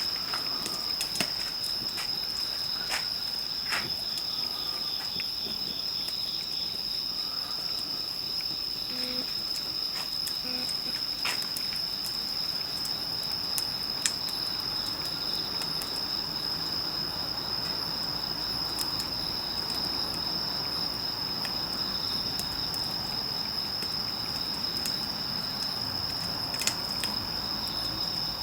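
Insects trilling in one steady, unbroken high tone, with scattered sharp pops and crackles from a wood campfire.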